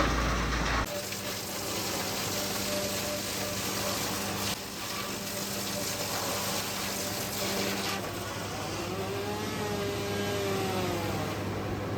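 A machine engine running steadily with a low hum under a noisy hiss. A louder noise cuts off about a second in, and a whine rises and falls briefly near the end.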